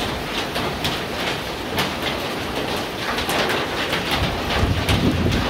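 Heavy thunderstorm rain pouring steadily, with many sharp ticks of drops striking close by. A low rumble swells near the end.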